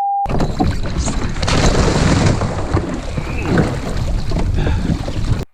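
A steady single-pitch beep cuts off just after the start. It is followed by loud, rough wind-and-water noise buffeting the microphone on a kayak on open water, which stops abruptly near the end.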